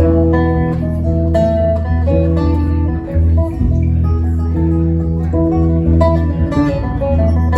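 Band music with guitars playing plucked and strummed notes over a steady, loud bass line.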